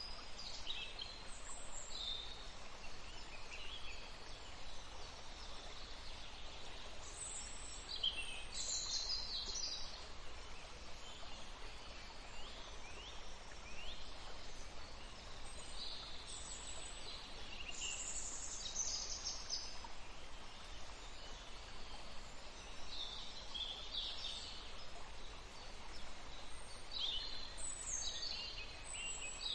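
Several songbirds chirping and trilling in bursts over a steady background hiss.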